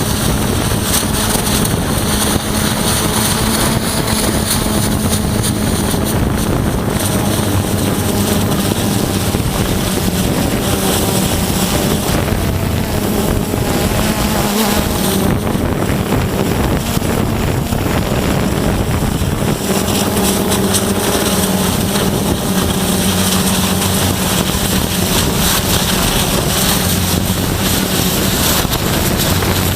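Hydrodemolition robot at work: a loud, steady rush of high-pressure water jetting against concrete over a steady machine drone, with no let-up.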